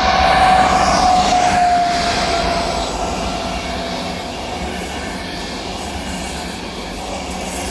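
Train running past the platform: a single whining tone that drops slightly in pitch during the first two seconds, over the steady rush and rumble of the cars. It is loudest about half a second in, then eases off.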